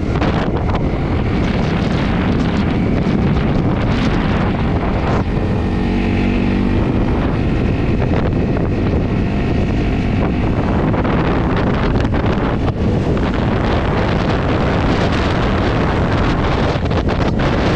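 Heavy wind buffeting on the microphone while riding a Honda CRF250's single-cylinder four-stroke engine. The engine's note comes through more clearly around six seconds in.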